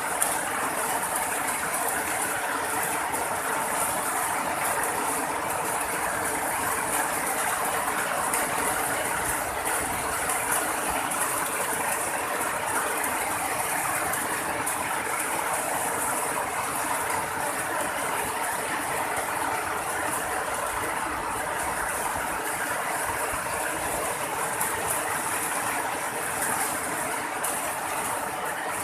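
Heavy rain falling, a steady, even downpour with no breaks.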